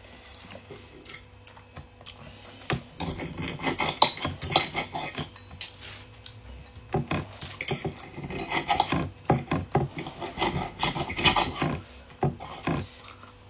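Cutlery scraping and clinking on a plate, a knife and fork cutting and gathering food, in two busy stretches with a short lull between them.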